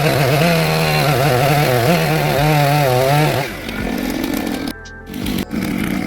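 Chainsaw cutting wood at high revs, its pitch wavering as the chain loads up in the cut. A little after halfway the note breaks off into a lower, rougher running sound, with a brief drop near the end.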